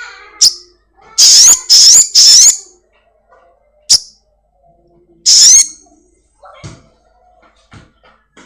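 Sogon songbird giving loud, shrill, high-pitched calls: a short chirp, then three quick calls in a row, then two single calls a few seconds apart, each with a quick upward sweep.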